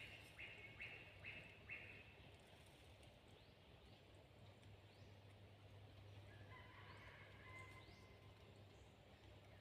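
Faint forest ambience: four short repeated bird notes in the first two seconds, then a distant red junglefowl crowing about six seconds in.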